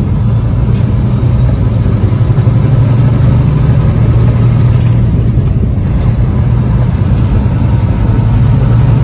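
Heavy truck's engine running steadily under way, a constant low drone with road noise.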